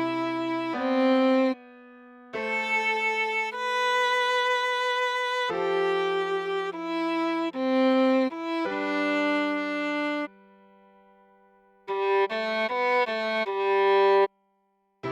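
Viola playing a slow melody in sustained single notes, with short pauses between phrases, one near 2 seconds in and a longer one after about 10 seconds.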